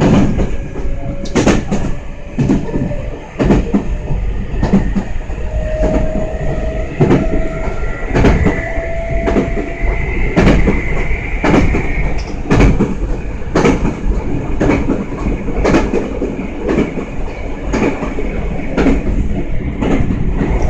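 Electric train heard from inside the passenger car, wheels clicking over rail joints about once a second over a steady running rumble. A faint whine, typical of the traction motors, rises slightly in pitch during the first half.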